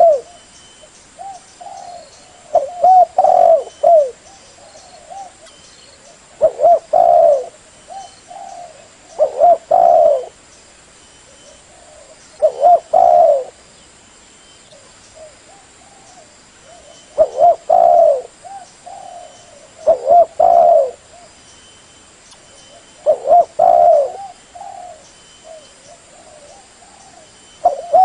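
Spotted dove (tekukur) cooing: phrases of a few quick, mellow coos, repeated about every three to four seconds, with softer single coos in the gaps.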